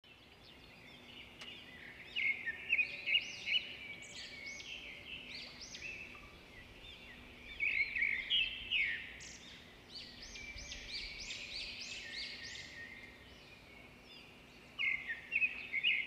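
Several birds chirping in bouts of quick, arched chirps, starting about two seconds in, over a faint steady low hum.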